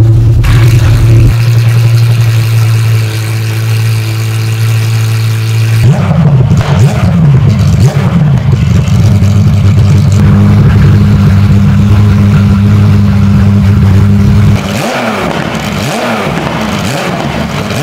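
Porsche 911 GT3 R race car's flat-six engine running on its first start after the rebuild. It holds a steady idle, then from about six seconds in it is revved up and down, and near the end it runs quieter with a few more rises and falls in revs. It runs cleanly, without fault.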